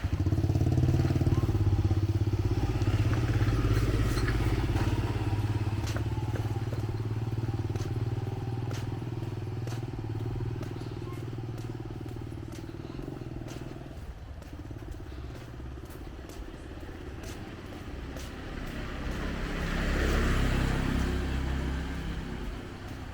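Small motorcycle engines running on the street. One is loud at first and fades away over the first half, and a second swells up and passes about three quarters of the way through.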